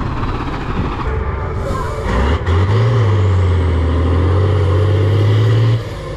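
Heavy off-road trial truck's engine running; from about two seconds in, a loud steady low drone takes over, then cuts off suddenly near the end.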